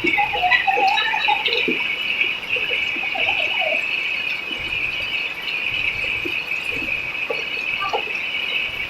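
Rain falling, with a steady high-pitched drone and scattered short squeaky calls throughout.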